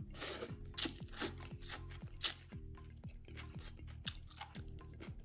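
Close-miked mouth sounds of someone eating vermicelli with pork hock: wet chewing and biting with sharp crunchy smacks, the two loudest about a second and two seconds in, growing sparser later. Under them runs background music with a deep bass that slides down again and again.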